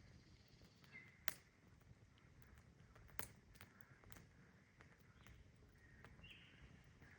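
Near silence: quiet outdoor ambience with a few faint, sharp clicks and a couple of faint short chirps.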